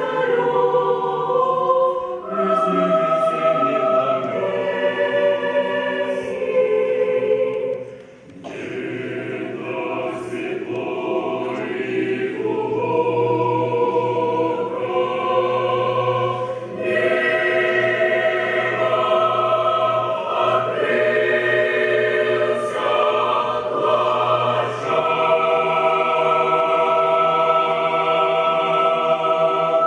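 Mixed choir singing slow, sustained chords, with a brief break about eight seconds in and a long chord held near the end.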